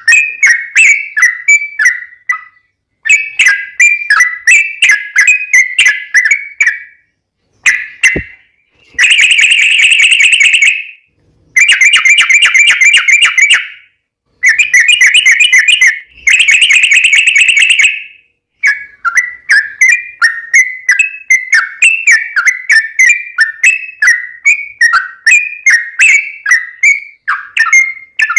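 Yellow-vented bulbul (trucukan) singing loudly: runs of quick, bubbly chirping notes, with three long, very fast rattling trills in the middle, the drawn-out 'ropel' phrases that keepers prize.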